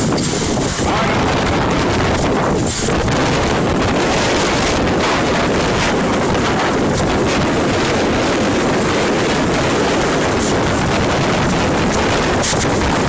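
Strong wind from a passing tornado, a loud, steady rush of noise with the gusts buffeting the microphone.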